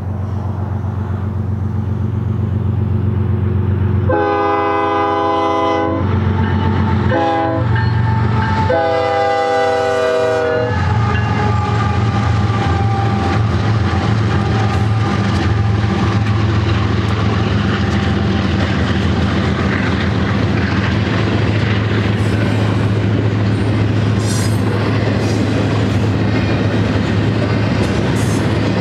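BNSF GE diesel locomotives passing close by and sounding their air horn: a long blast, a short one, then another long one, about four to eleven seconds in, over the steady loud running of their engines. A double-stack intermodal train's well cars then roll past with a continuous rumble and clickety-clack of wheels on the rails.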